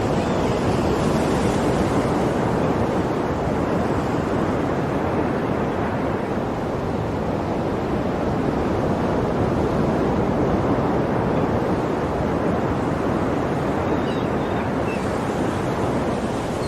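Sea waves breaking and washing in a continuous surf, with gentle swells in the hiss near the start and again near the end.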